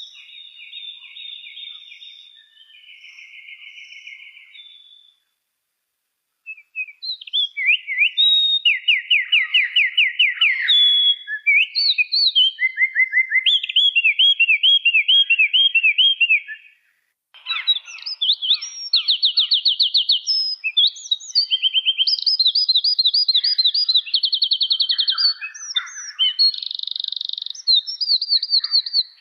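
A songbird singing a long, varied song of rapid trills and fast runs of repeated chirping notes, changing phrase every second or two. The song is softer for the first few seconds, pauses briefly, then comes back much louder.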